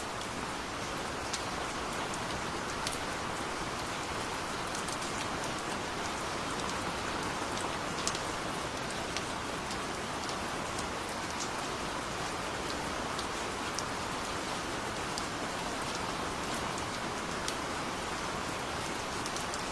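Steady gentle rain falling, a constant hiss with scattered individual drop taps standing out above it.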